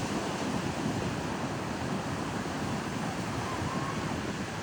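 Strong beach wind buffeting the microphone over the steady wash of ocean surf.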